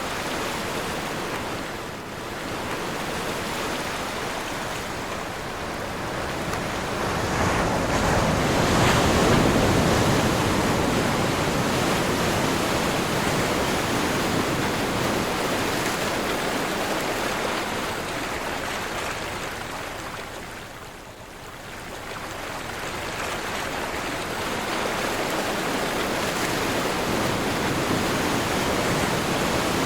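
Sea waves breaking and washing in, with wind. The surf swells to its loudest about eight to ten seconds in, falls to a lull about twenty-one seconds in, then builds again.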